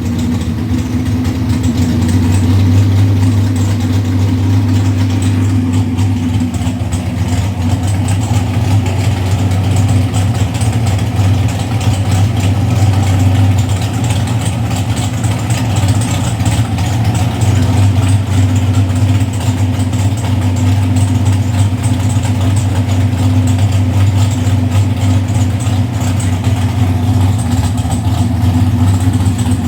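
Carbureted 548 cubic-inch big-block Chevy V8 running on E85, idling steadily as it warms up after a cold start; the engine is not yet fully tuned.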